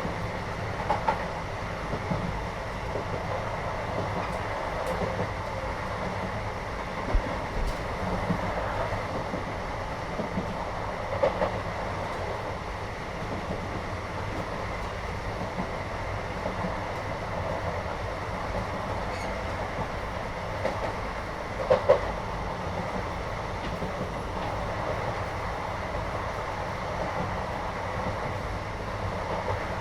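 Inside a moving Indian train carriage: the steady rumble of the running train, wheels on the rails, with a few short, sharper knocks at irregular moments. The loudest knock comes about 22 seconds in.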